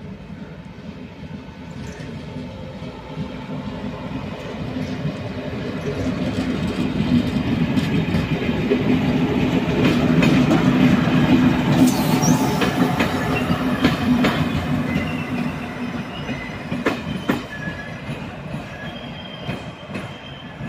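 A train moving past on the station tracks, growing louder to a peak about halfway and then fading, with a steady low running hum, wheel clicks over rail joints and some wheel squeal.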